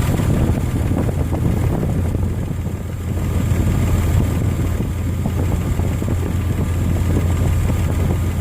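Nissan Xterra's 3.3-litre V6 idling steadily with the lights off, while its ignition timing is checked and set at the distributor.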